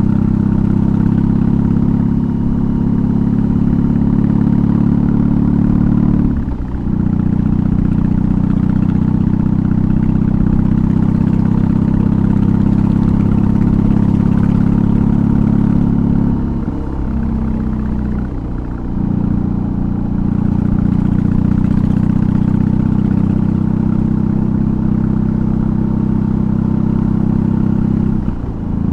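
BMW R18's 1802 cc boxer twin running under way through an aftermarket exhaust, a steady loud engine note. It dips briefly about six seconds in and again near the end, and eases off to a lower note for a couple of seconds around the middle, the pattern of gear changes and throttle roll-off.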